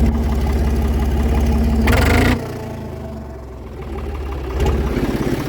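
Fendt 260 V tractor engine running with its exhaust missing, a steady beat. A brief loud noisy burst comes about two seconds in, after which the engine sound drops and then picks up again near the end.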